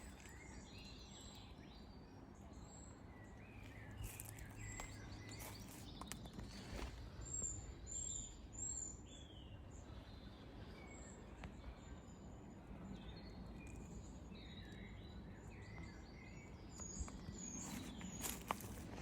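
Several birds chirping and calling over a faint, steady outdoor background noise, with a quick series of short high notes about halfway through. A few sharp clicks are scattered through.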